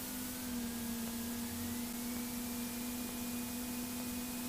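Cessna 172 cabin sound heard through the intercom while taxiing: a steady low hum over even hiss, with a faint thin whine that slowly rises in pitch.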